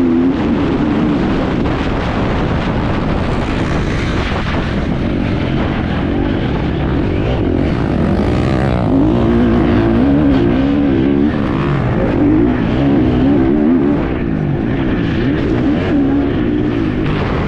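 Enduro motorcycle engine heard on board while riding, its revs rising and falling over loud wind and riding noise.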